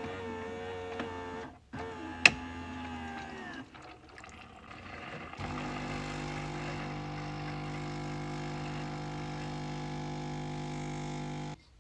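Coffee machine motors running in stages: a short hum, a sharp click, a second short hum, then a quieter stretch. A steady, even-pitched hum follows for about six seconds and cuts off abruptly near the end.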